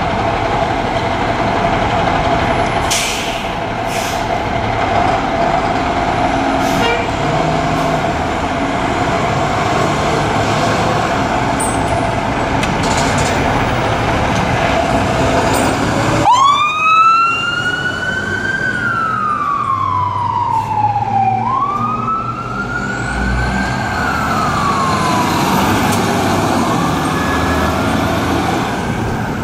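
Fire truck engine and street noise, then about sixteen seconds in a fire truck siren starts. It winds up quickly and falls away slowly in a long wail, twice.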